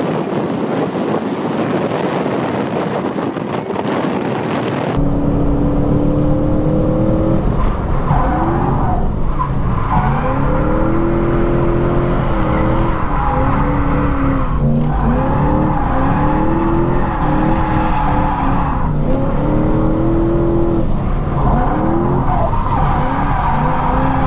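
Lexus IS200's swapped 1UZ V8 engine revving hard up and down while the car is drifted, with tyre squeal. About five seconds in, the sound changes abruptly from a noisy rush to a clearer engine note that rises and falls over and over.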